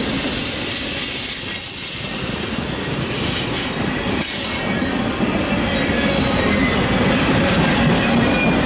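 Freight cars rolling past close by: steel wheels running on the rails in a steady rumble, with a thin high wheel squeal through it and a brief brighter squeal a little after three seconds in.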